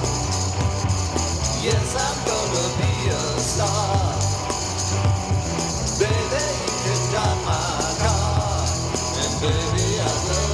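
Instrumental rock section: a hollow-body electric guitar plays a lead line with bent notes over electric bass and cajon.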